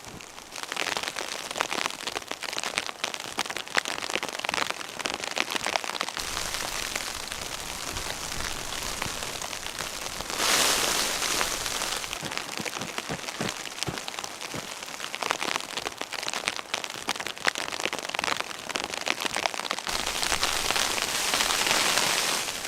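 Blizzard snow pattering densely and irregularly against a surface, with sudden shifts in loudness a few times.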